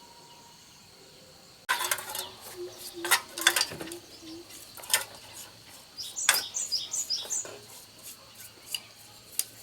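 A run of sharp clicks and metal clinks from hand tools and small parts being handled, starting suddenly about a second and a half in. A bird chirps a quick series of short notes about six seconds in.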